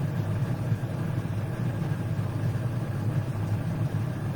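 Steady low background rumble with no distinct events, unchanged throughout.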